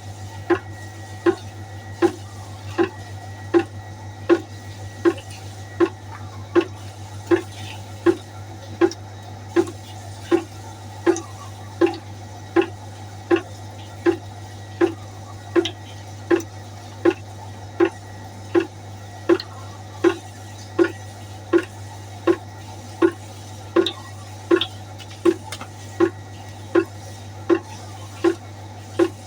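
Water droplets falling one at a time into water in a pot, a regular plink just under twice a second, each drop with the same low ringing pitch, over a steady low hum.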